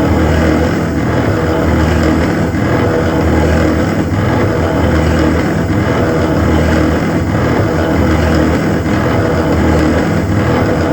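CNC machine running, a loud, steady mechanical noise with a low hum that swells and fades about every second or so.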